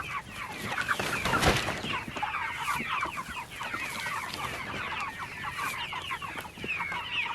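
A flock of chickens clucking and chirping continuously, many short overlapping calls. A brief rushing noise rises and falls about a second and a half in.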